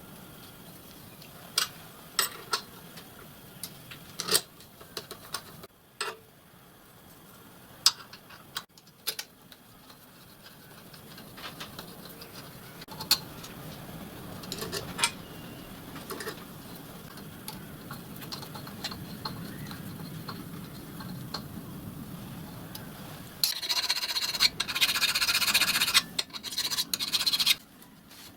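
Hand work on small steel parts: sharp clicks and knocks of metal pieces and tools being handled, then about four seconds of loud rasping scraping near the end.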